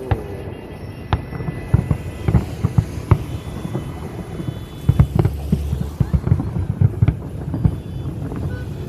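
Fireworks going off: a run of irregular sharp bangs and pops, several a second at times, over a steady low noise.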